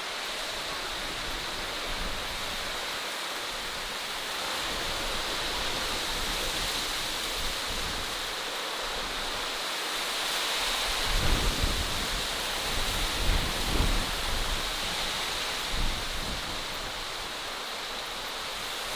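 Outdoor natural ambience: a steady rushing hiss, with low rumbling gusts of wind buffeting the microphone a little past halfway through.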